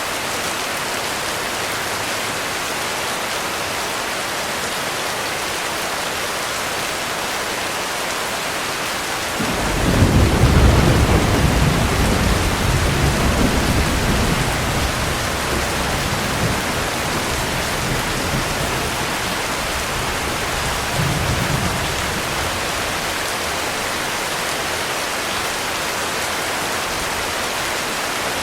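Heavy rain falling steadily. About a third of the way in, a loud roll of thunder breaks in suddenly and rumbles low for several seconds, easing off with a smaller swell later before dying away under the rain.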